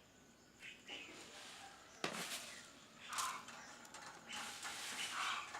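A bird giving a few short calls, with a sharp click about two seconds in.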